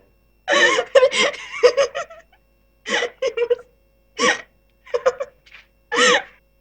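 Laughter sound effect: a person laughing in about five separate bursts with short pauses between them.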